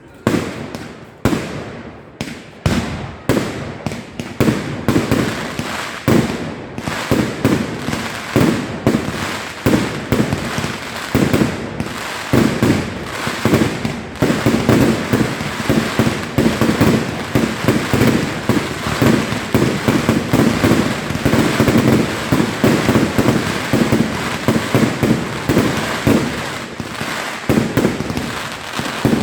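Fireworks display: a quick string of separate bangs that within about six seconds thickens into a dense, almost unbroken barrage of shell bursts.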